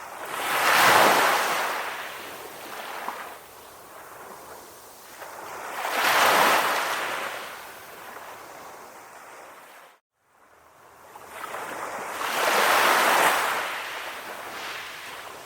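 Calm ocean waves washing onto a shore, three swells rising and falling about six seconds apart. A brief dropout to silence comes about two-thirds of the way through.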